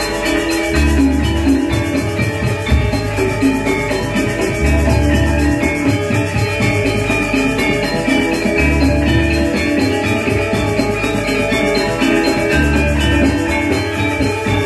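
Balinese gamelan music: metallophones play a fast, dense melody over drums, with a deep low gong-like stroke about every four seconds.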